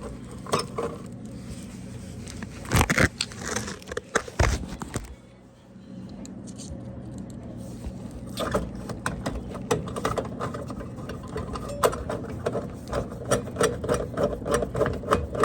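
Hands working on a GE dishwasher's control panel: plastic knocks and scraping, with a couple of sharp knocks early on and a run of quick clicks and rattles in the second half.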